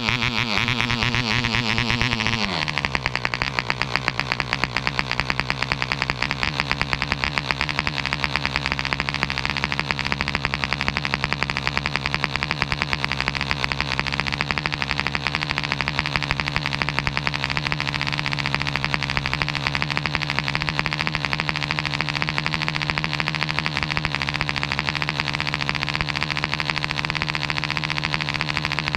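Webra 1.5cc (.09 cu in) model-airplane diesel engine running fast, then throttled back sharply about two and a half seconds in, settling to a steady low idle.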